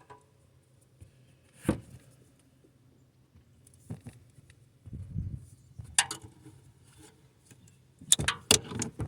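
Scattered clicks and clinks of hand tools and metal parts handled in an engine bay while a spark plug is worked loose, with a duller knock about five seconds in and a quick run of clicks near the end.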